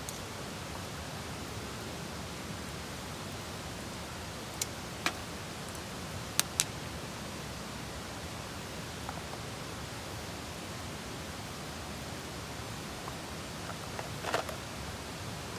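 Steady hiss with a few sharp clicks: two about five seconds in, two close together about six and a half seconds in, and a small cluster near the end.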